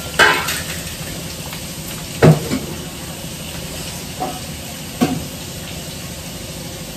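Onions frying in hot oil with a steady sizzle. A few sharp clatters of kitchen utensils come on top, two of them loud.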